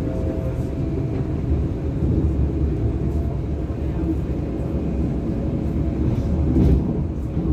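Interior running noise of a DB class 425 electric multiple unit travelling between stations: a steady low rumble of wheels on rail with a faint steady whine from the drive.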